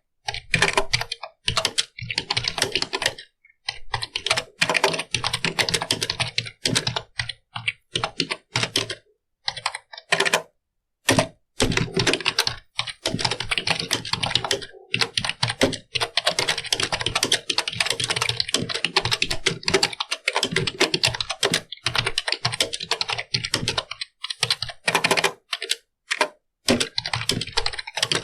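Computer keyboard being typed on: fast runs of key clicks broken by brief pauses.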